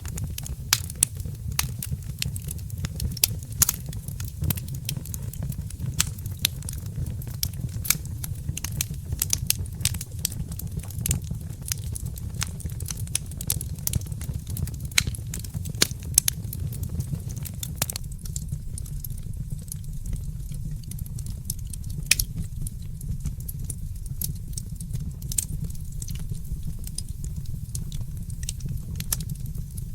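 Wood fire crackling in a fireplace: many sharp pops and snaps over a steady low rumble, the pops thinning out a little past halfway.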